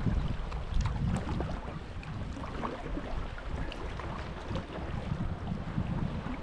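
Wind buffeting the microphone as a low rumble, with sea water lapping and splashing in small scattered ticks around a sea kayak.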